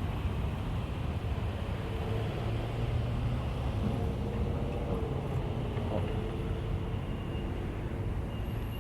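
Union Pacific intermodal stack train rolling along the track: a steady low rumble with faint, thin tones above it.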